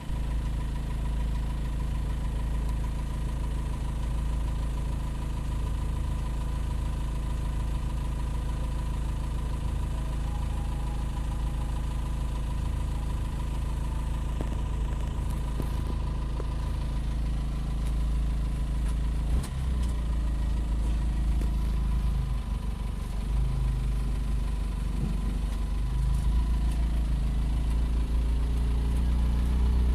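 An engine running steadily at a constant speed, its note shifting slightly about two-thirds of the way through, with a single knock just before.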